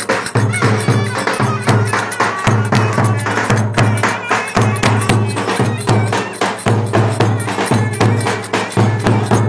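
Turkish wedding dance music: two clarinets playing a folk melody over a heavy, steady drum beat with dense clicking percussion.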